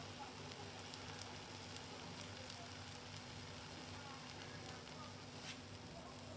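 Pancake batter frying in a stainless steel pan: a steady quiet sizzle with scattered small crackling pops.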